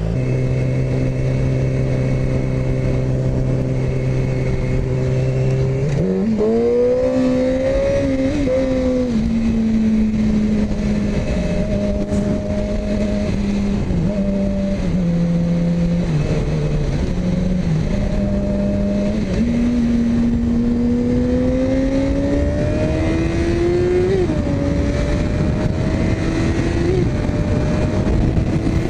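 Yamaha R6 inline-four sport bike engine heard on the move with wind rushing over the microphone. It holds a steady note for about six seconds, then revs up, drops in pitch at each gear change and climbs again as the bike accelerates.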